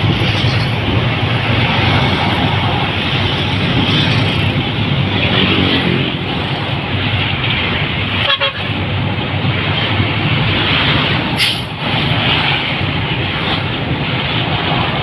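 Steady road and wind noise from a vehicle travelling along a highway, with a low rumble underneath. A horn toots briefly about five seconds in, and a sharp knock comes about eleven and a half seconds in.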